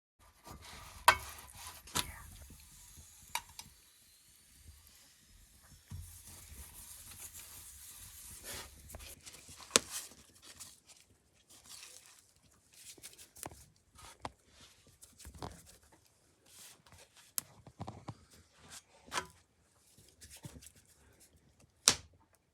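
Handling noises: irregular sharp clicks and knocks with stretches of faint rustling between them, the loudest click about a second in and another near the end.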